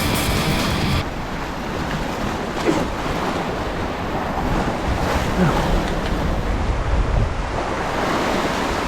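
Sea waves washing and surging with wind buffeting the microphone. Background music cuts off about a second in.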